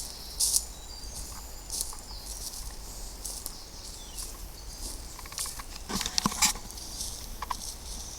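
Footsteps scuffing and rustling along an outdoor path, a few louder scuffs at irregular intervals, over a low steady rumble.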